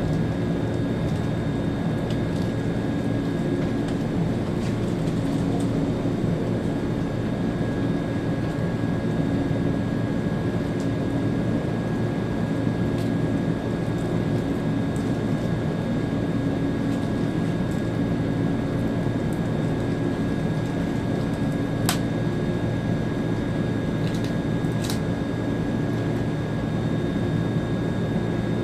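Steady running noise inside the driver's cab of an ÖBB Railjet train: a constant low hum with a thin high whine, and a sharp click about 22 seconds in.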